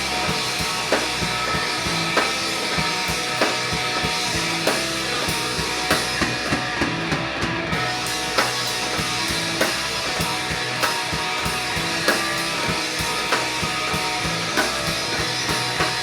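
Instrumental passage of rock music: a steady drum-kit beat with guitar and bass, without vocals.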